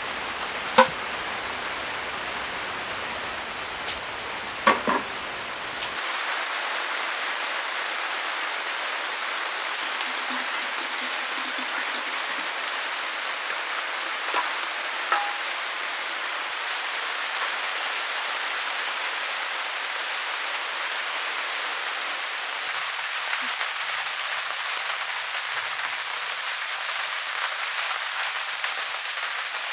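Steady downpour of rain, with a few sharp taps in the first five seconds.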